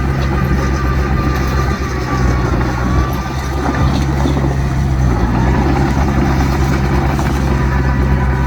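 Heavy diesel engine of earthmoving machinery running steadily, a deep drone with a faint high whine above it.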